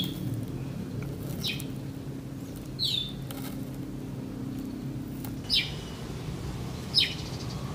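A small bird chirping: a short, sharply falling note repeated five times, about every one and a half seconds, over a steady low hum.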